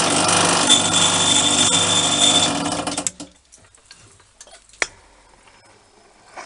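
A workshop machine running steadily, then switched off about three seconds in. A few light clicks and knocks follow.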